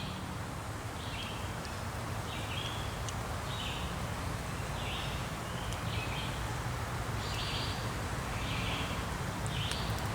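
A bird chirping the same short note over and over, about once a second, over a steady low rumble.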